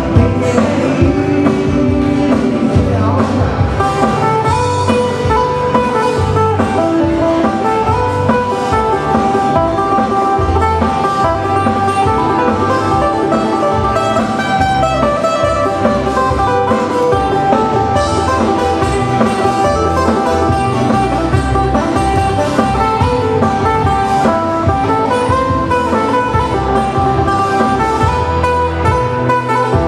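Hawaiian band playing an instrumental passage: a plucked guitar melody over a steady bass beat.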